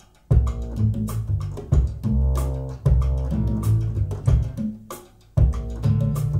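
Instrumental stretch of a jazz vocal recording: deep plucked bass notes with guitar, no singing. It is played back through hi-fi loudspeakers and picked up by microphones in the listening room. The music drops away briefly just after the start and again about five seconds in.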